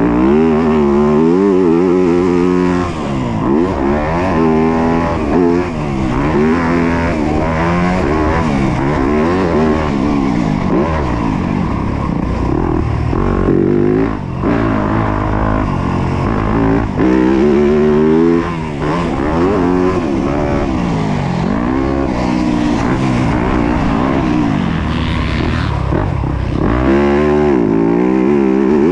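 Yamaha YZ250F single-cylinder four-stroke motocross bike being ridden hard, its engine note climbing and dropping over and over every second or two as the throttle opens and closes.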